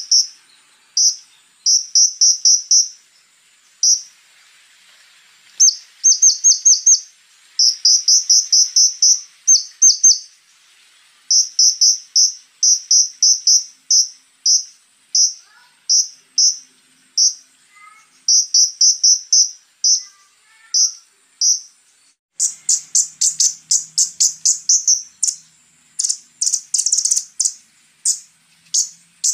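A konin singing rapid runs of sharp, high chips in bursts with short pauses between them. A steady high whine sits behind the song until about two-thirds of the way through. After that the chips come denser and faster toward the end.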